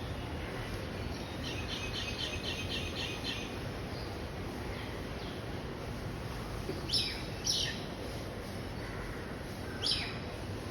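Birds calling over a steady background hiss: a quick run of high chirps, about four a second, then three short, loud calls that sweep downward in pitch.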